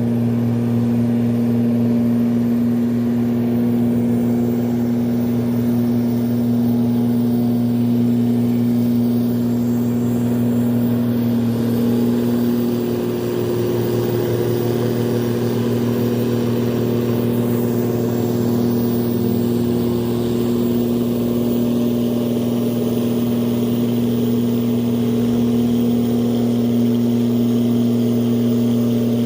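Tugboat engine running steadily under load with a constant low drone while towing a sand barge.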